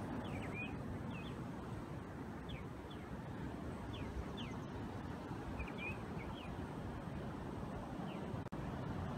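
Birds giving short, high chirps that fall in pitch, scattered singly and in small clusters, over a steady low rushing noise.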